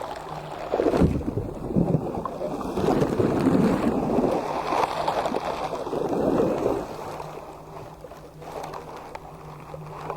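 Slime being squished and worked by hand: irregular sticky, squishing noises, loudest over the first seven seconds or so and softer near the end.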